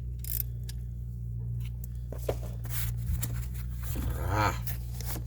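Scattered clinks and scrapes of metal hand tools over a steady low hum, ending in a short strained grunt.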